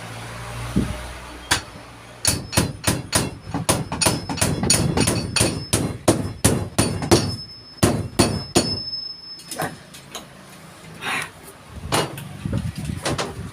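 Hammer driving nails in carpentry work: a long fast run of sharp blows at about three or four a second, then a pause and a few scattered strikes near the end.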